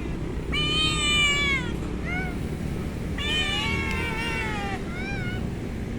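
Domestic cat meowing: two long, high drawn-out meows, each followed by a short chirp-like meow or two.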